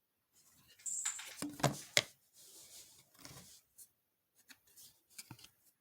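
Trading cards being handled and flipped through a stack: papery rustling with a few sharp clicks and snaps about one to two seconds in, then lighter scattered ticks.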